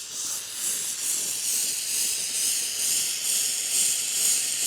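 Ambro Precision Torch's oxygen and MAP-gas flame hissing steadily while it heats a copper joint on an evaporator coil to draw the brazing alloy into it.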